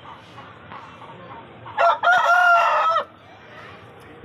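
Parrot beak Aseel rooster crowing once, a little under two seconds in: a short first note, then a held note that cuts off after about a second.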